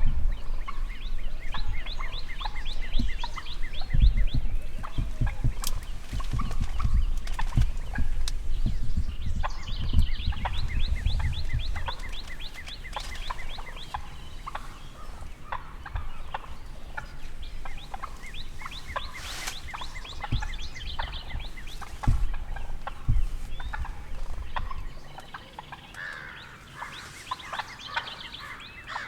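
Wild turkey gobbling several times, each gobble a quick rattling run of notes. A low rumble and scattered thumps run under it and fade out near the end.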